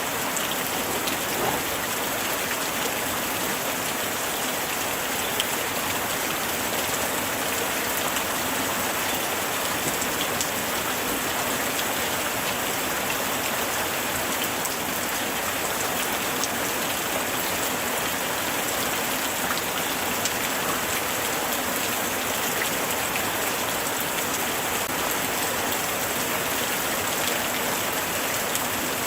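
Steady light rain falling, a constant hiss with small scattered drop ticks.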